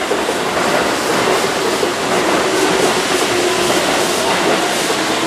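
Keihan 2200-series electric commuter train running past on curving track, a steady rumble of wheels on rail with some clatter over the joints and points, and a faint steady hum.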